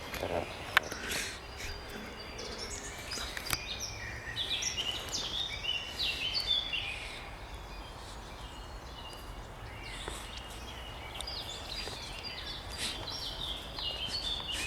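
Songbirds singing in a spring chorus: quick chirping and warbling phrases, busiest in the middle, over a steady low background rumble. A sharp click sounds just under a second in, and another at about three and a half seconds.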